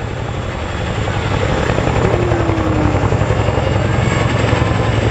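Boeing Chinook tandem-rotor helicopter, its rotors beating fast and steadily. It grows louder about two seconds in.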